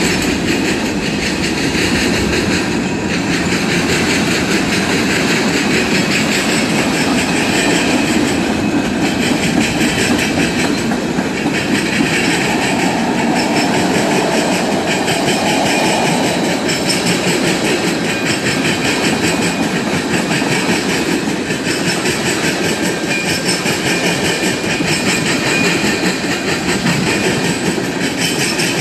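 Freight train cars rolling past: tank cars, a covered hopper and centerbeam flatcars, their wheels giving a steady stream of clicks over the rail joints along with the running noise of the cars.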